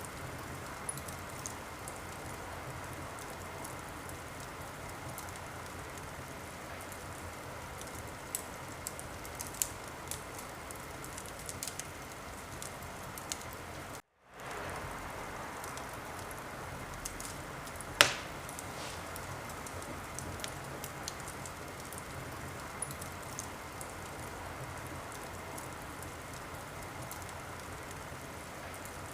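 Fireplace fire crackling: a steady hiss with scattered small crackles and one loud pop a little past the middle. The sound cuts out completely for a moment near the middle.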